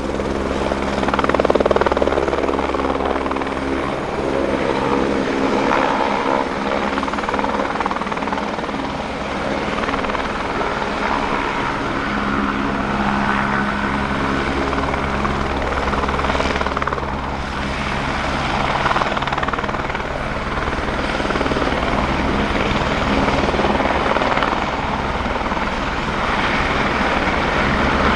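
Eurocopter AS350B3 Écureuil helicopter running steadily: its single turboshaft engine and main rotor make a continuous even sound with no marked rise or fall.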